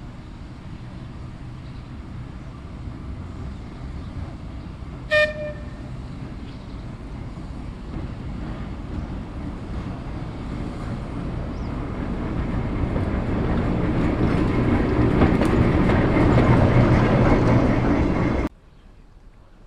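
A steam-hauled train approaching and passing close, its rumble growing steadily louder, with one short whistle blast about five seconds in. The sound cuts off suddenly near the end.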